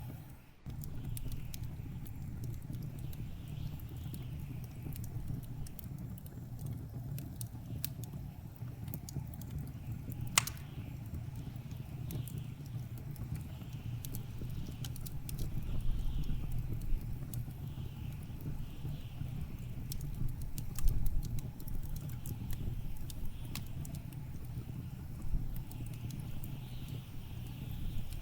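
Wood fire crackling in a fireplace, with frequent small pops and one louder crack about ten seconds in, over the steady low rumble of blizzard wind.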